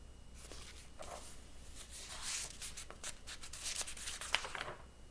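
Paper pages of a picture book rustling and rubbing as a page is turned, with a few light taps, lasting about four seconds.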